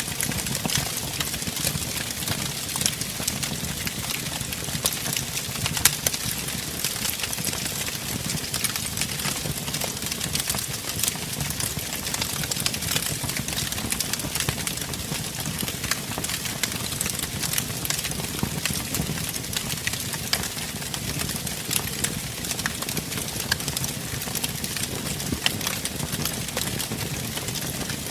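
Wood fire burning in a fireplace: a steady low roar of flames with irregular crackles and pops, one sharper pop about six seconds in.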